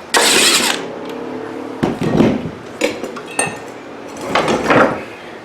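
Loose metal parts clattering and clinking as they are handled, with a loud clatter at the start, a few short knocks with a brief metallic ring in the middle, and another clatter near the end.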